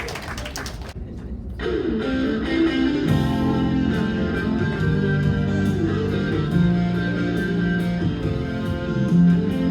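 Music: a song's intro led by guitar, beginning about a second and a half in with a run of picked notes, with bass and fuller backing coming in about three seconds in.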